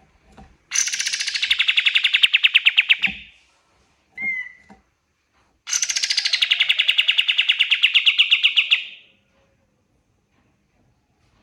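Kapas tembak songbird singing two long, rapid rattling trills of about two and a half seconds each. Each trill starts high and drops in pitch. A short chirp comes between them, about four seconds in.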